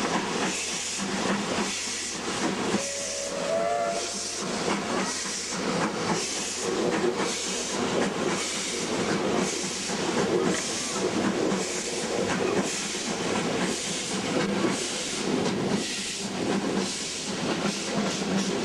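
Exhaust of the double-headed W-class steam locomotives W945 and W903 working a train: a steady run of hissing chuffs, about one and a half beats a second. A brief pitched tone sounds about three seconds in.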